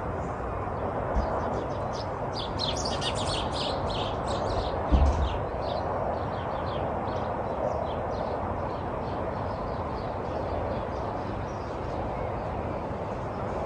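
Small birds chirping in quick, rapid runs for several seconds, then more sparsely, over a steady background hiss and rumble. A single low thump comes about five seconds in.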